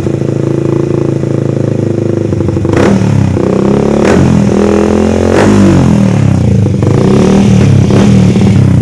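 Motorcycle engine and exhaust idling steadily, then revved repeatedly from about three seconds in, the pitch rising and falling with each blip of the throttle. Short sharp cracks come at the start of several of the revs.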